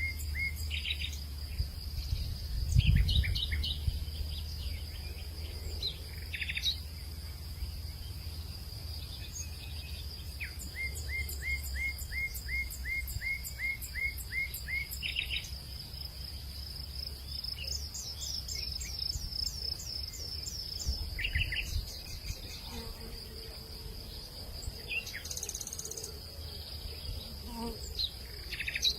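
Hillside evening ambience: a steady high-pitched insect drone, with birds calling in runs of quick repeated chirps. Under it runs a low rumble that swells about three seconds in.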